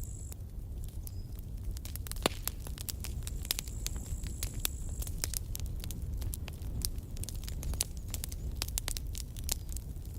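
Campfire of burning wood crackling, with irregular sharp pops and snaps, the loudest about two seconds in, over a steady low rumble. A thin high hiss comes and goes near the start and again around the middle.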